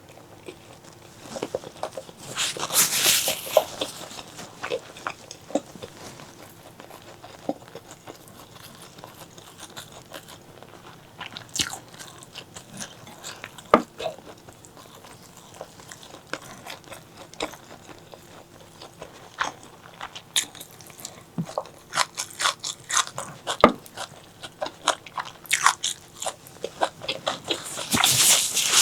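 Close-miked eating: biting and chewing with crisp crunches and wet mouth clicks, busier and louder for a moment about three seconds in and again near the end.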